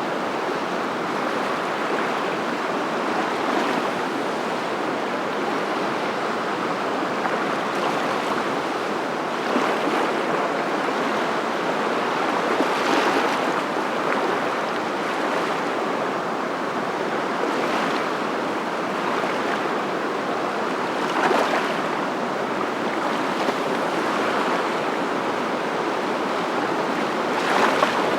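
Steady rushing water, a continuous even noise with a few brief, slightly louder splashes.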